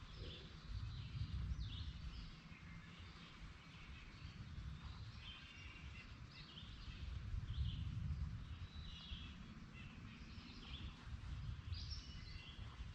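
Faint birds chirping, short calls repeating every second or so, over a low rumble that swells twice.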